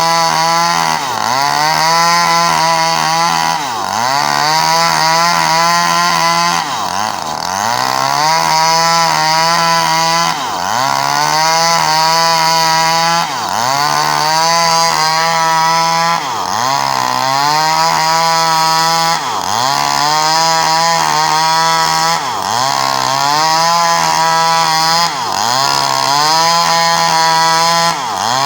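Small Stihl two-stroke chainsaw running hard while sawing a coconut palm trunk. Its engine pitch dips briefly and picks back up about every three seconds.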